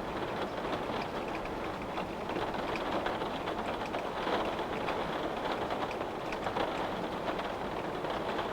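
Steady rain pattering on a window pane, a continuous hiss dotted with many small drop ticks.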